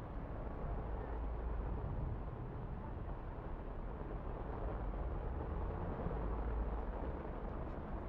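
Steady outdoor ambient noise, mostly a low rumble with no distinct events.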